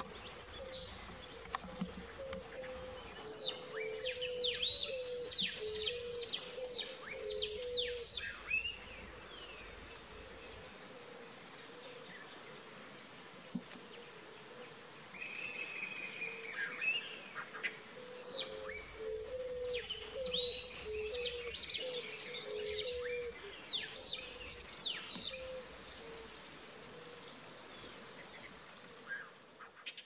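Several wild birds chirping and calling, with quick high notes and sweeping calls in two busy spells, with a quieter stretch of several seconds between them. A lower wavering note runs under the busiest parts.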